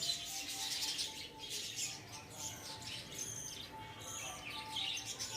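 A colony of lovebirds chirping together in an aviary, a continuous busy chatter of many short high-pitched chirps overlapping one another.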